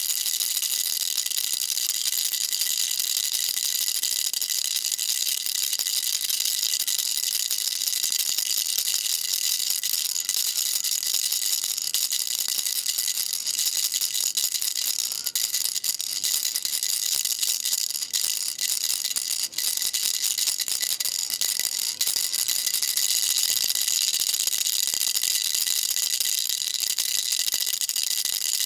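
Baby rattle shaken without a break: a dense, fast, high-pitched rattling of small beads at an even level.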